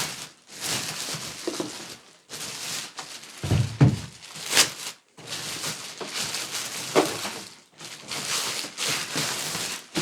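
Plastic wrapping rustling and crinkling in repeated bursts as it is pulled off a foot massager, with a thump a little under four seconds in and a few sharp clicks.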